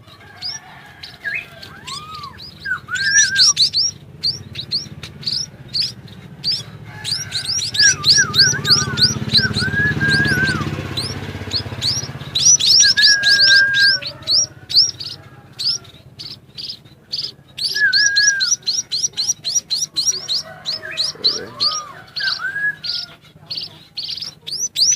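Bird the title calls 'sắc ô' calling: rapid runs of sharp high chirps, several a second, each sliding down in pitch. These are mixed with occasional lower slurred whistles.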